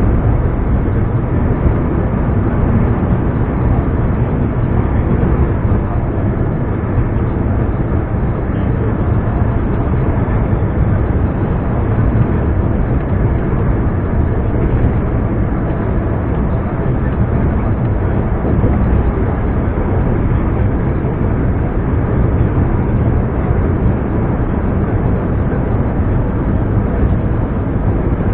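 Scania R420 truck's six-cylinder turbo diesel engine running steadily under way, a loud, even drone with no changes in engine speed.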